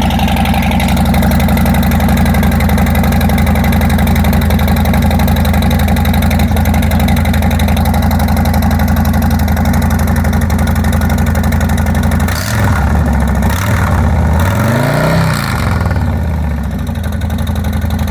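Stage One Harley-Davidson Milwaukee-Eight 114 V-twin idling just after a cold start. Between about twelve and sixteen seconds in the engine speed dips, then rises and falls back in a short throttle blip before it settles to idle again.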